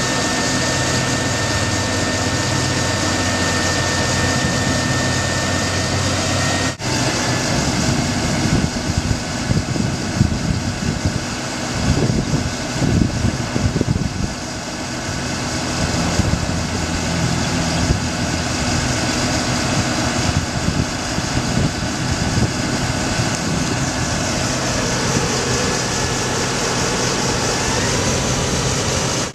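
2008 Ford F750 bucket truck's engine running: a steady hum at first, then after a brief break about seven seconds in it turns rougher and uneven, with louder swells for a few seconds.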